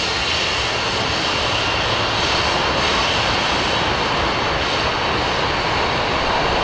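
A train passing on the mainline: a steady rush of wheel-and-rail noise that holds level throughout.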